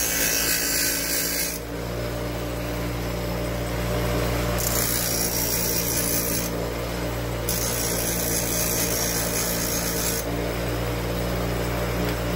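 A power grinder running steadily, with three spells of grinding, each about two seconds long, as the work is pressed against it and lifted off.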